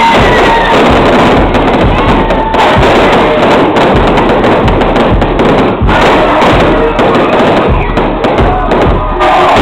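Fireworks going off in a dense, rapid run of bangs, with music and voices underneath.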